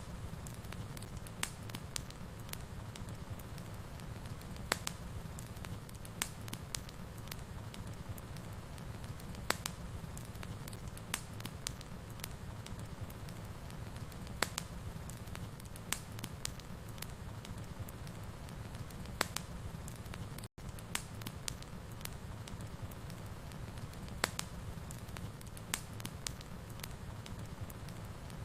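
Wood fire burning in a fireplace: a steady low rumble with sharp, irregular crackles and pops, about one or two a second. The sound breaks off for a split second about two-thirds of the way through.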